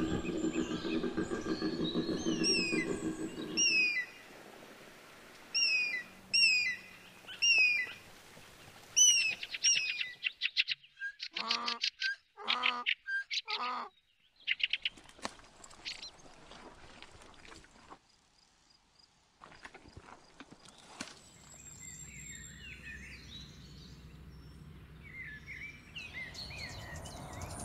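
A koala bellowing, a low call that stops about four seconds in, then a bird chirping over and over with short falling notes. Other animal calls and quieter outdoor sounds follow.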